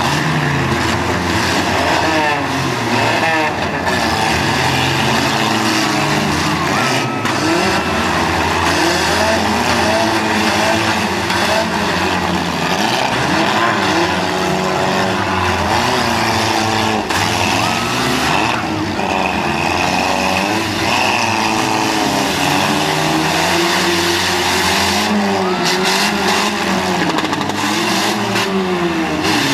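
Several demolition derby car engines revving up and down over one another, loud and continuous.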